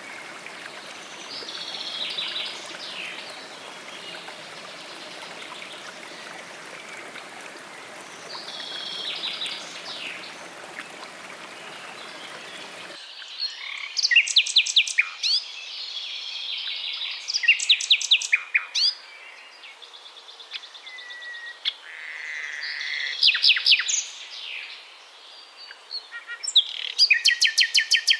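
Birds singing in a nature soundscape. For the first half a few bird calls sit over a steady rush of running water. About halfway through the water sound cuts off suddenly, and louder bird song follows: quick repeated notes and fast trills in phrases a few seconds apart.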